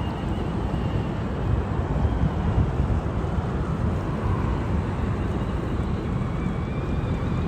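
Steady low rumble of wind on the microphone, with a faint high whine from a radio-controlled crawler's electric motor and gearbox coming and going.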